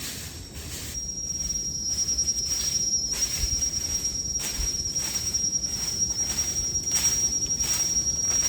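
An insect, such as a cicada, droning on one steady high pitch that starts about a second in.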